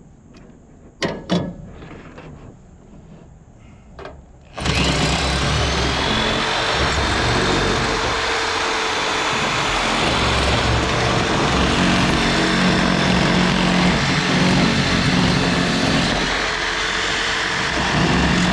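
A couple of knocks, then a power tool starts about four and a half seconds in and runs steadily and loudly.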